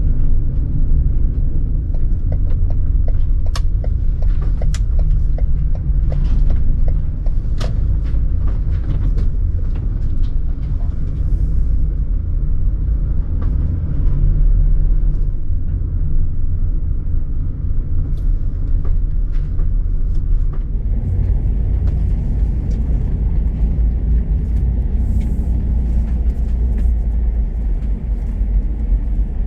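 Steady low road rumble of a 2018 Ford Transit camper van being driven, with scattered clicks and rattles during the first several seconds.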